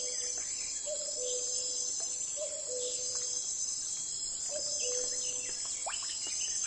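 Nature ambience: a steady, high-pitched insect chorus of crickets, with a few pairs of short, low two-note calls and scattered faint chirps over it.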